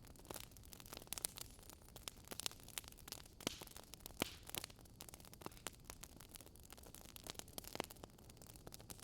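Wood fire crackling: irregular sharp pops and snaps, several a second, a few louder than the rest, over a faint low rumble.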